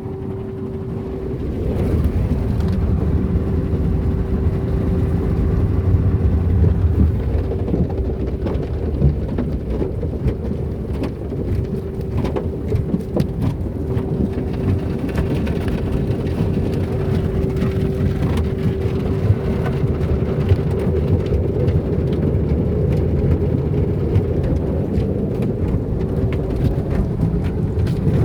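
Soft-cloth automatic car wash running: a steady low rumble with water spattering and many small clicks, over a constant machine hum.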